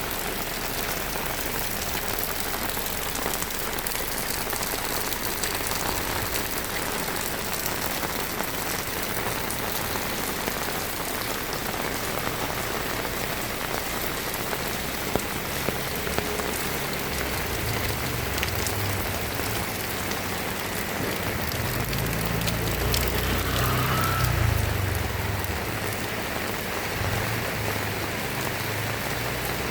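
Heavy rain falling steadily, with a low rumble that swells and fades in the second half.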